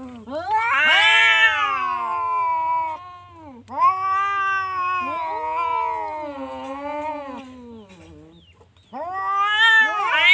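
Orange cat yowling in three long, drawn-out meows, each rising and then falling in pitch; the last begins near the end.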